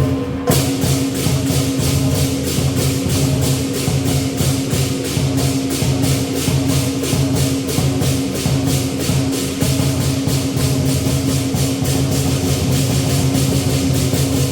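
Lion dance percussion: a big drum with clashing cymbals, the cymbals coming in about half a second in and striking a fast, even beat.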